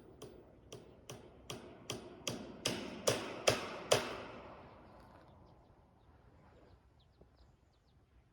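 A run of sharp, evenly spaced knocks, about three a second, growing louder and then stopping about four seconds in, followed by a few faint ticks.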